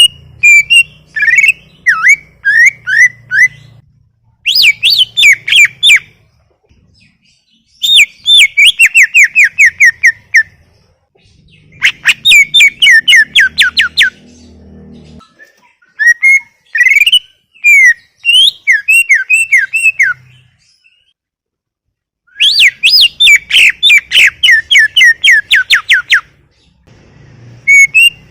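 Green leafbird (cucak ijo) singing loudly and continuously in phrases of rapid, repeated whistled notes. Each phrase lasts about two seconds, with short pauses between phrases.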